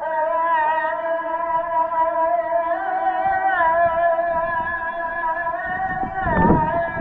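A male voice reciting the Islamic call to prayer (adhan), holding one long note with slow ornamental turns in pitch. A low rumble comes in about six seconds in.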